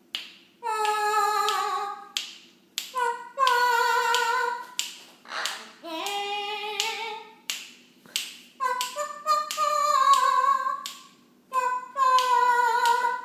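Eclectus parrot singing in an opera-like style: a string of held, wavering notes in short phrases of about a second each, with brief pauses between them.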